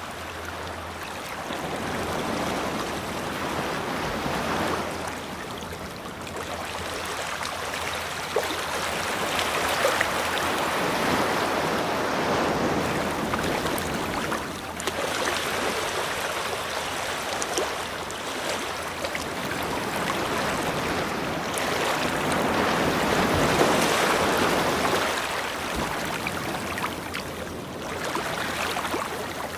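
Ocean waves washing onto a beach, a steady surf noise that swells and eases every few seconds.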